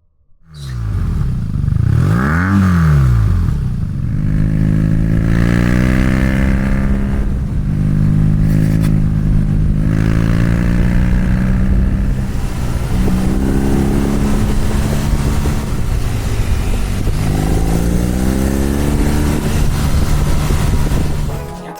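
BMW R nineT motorcycle's air/oil-cooled boxer twin running, with a quick blip of revs rising and falling about two seconds in. It then runs on with the engine note rising and settling several times.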